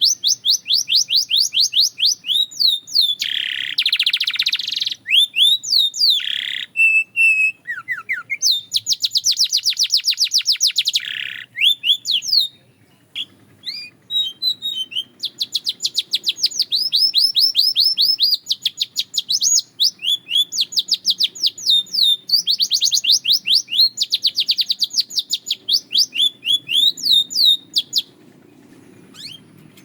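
Belgian canary singing: fast trills of rapidly repeated high notes, broken by short pauses, with a longer gap about twelve seconds in.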